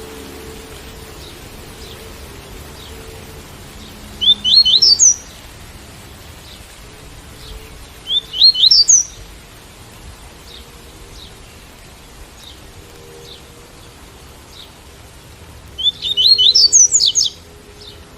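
Double-collared seedeater (coleiro) singing the 'tui-tui' song type: three short, loud, high-pitched phrases of quick rising notes, about a second each, roughly 4, 8 and 16 seconds in, over a soft steady background of rain.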